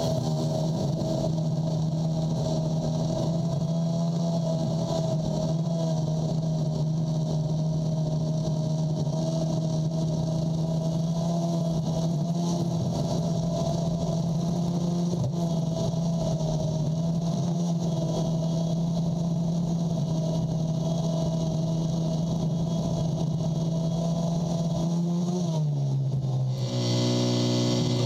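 Lawn tractor's small engine running steadily at high speed, pushing snow; about 25 seconds in its pitch drops as it slows, and a higher hiss rises near the end.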